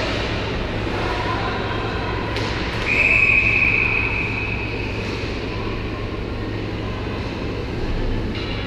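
Ice hockey rink ambience: a steady hum under general arena noise, with a referee's whistle blown once, about three seconds in, lasting a second or two.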